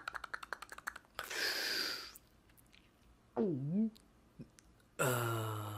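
Stifled, breathy laughter: a quick run of small clicks and a short exhale, then a brief rising-and-falling 'hmm'. About five seconds in, a steady ringtone-like tone starts abruptly: a phone ringing with an incoming call.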